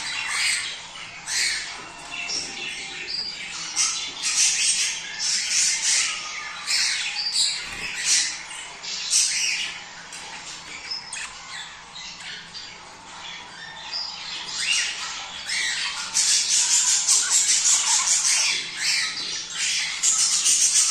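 A flock of budgies chattering and squawking without a break, many short high chirps overlapping, louder for the last few seconds. This is the excited chatter offered as budgie mating calls.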